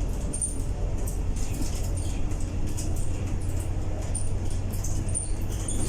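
Scania K230UB bus running steadily, a constant low drone, with short high squeaks and rattles from the cabin fittings scattered through.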